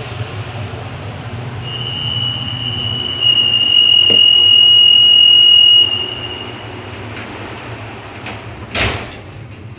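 Steady high single-pitched warning tone inside an AS-14 Santiago Metro train, held for about four seconds over the car's low steady hum, typical of the door-closing signal at a station stop; a click sounds partway through and a short thud follows near the end as the doors shut.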